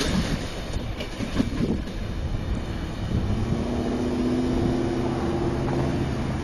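An Amtrak passenger train rolling away along the track, a steady noise of wheels on rail. About three seconds in, a steady held tone of several notes joins it and stops just before the end.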